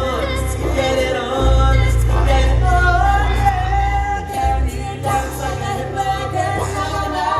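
Small vocal choir of student singers performing with amplified backing music, voices holding sustained notes over a steady bass.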